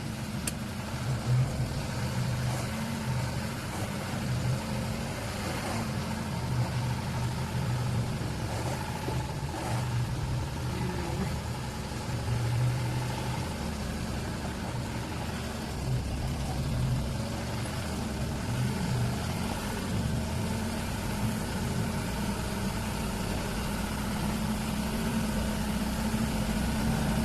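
Truck engine running steadily, a low hum that holds the same pitch throughout.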